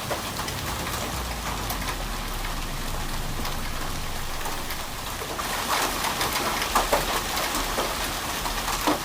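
Heavy rain pouring down steadily, with scattered sharp knocks of drops or hailstones striking a surface. The strikes come thickest about six to seven seconds in, and one more hits just before the end.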